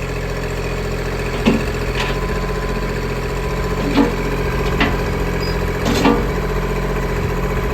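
Kubota L2501 tractor's three-cylinder diesel engine idling steadily, with about five short knocks or clunks scattered through it.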